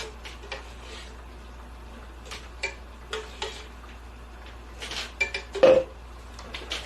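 Cutlery and dishes clinking during a meal: scattered light clicks and clinks, with a louder clink about five and a half seconds in.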